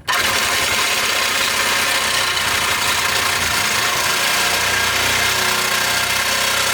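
Corded electric power tool cutting through the steel exhaust pipe of a Lexus GS430, a loud, steady grinding noise that starts suddenly as the blade bites into the metal.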